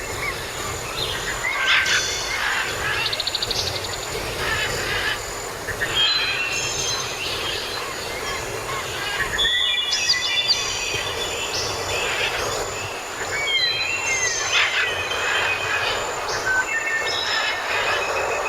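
A dense chorus of several songbirds: overlapping chirps, short whistles and a quick trill, over a steady background hiss.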